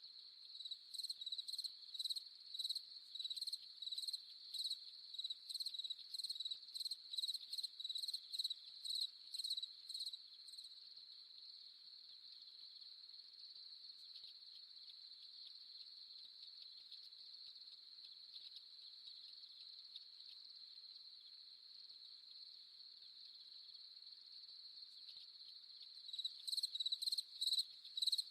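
Night insect chorus: crickets trilling steadily and high. A louder, nearer cricket chirps over it in a quick even rhythm of about three chirps a second, stops about ten seconds in, and starts again near the end.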